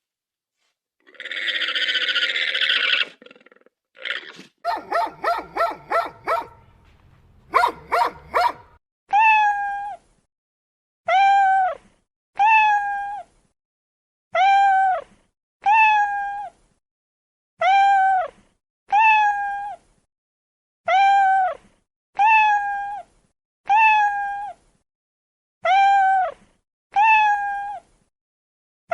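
An animal calling over and over, about once a second, each call short, clear and arched in pitch. It is preceded by a harsher, noisier call and a quick run of pulsed calls.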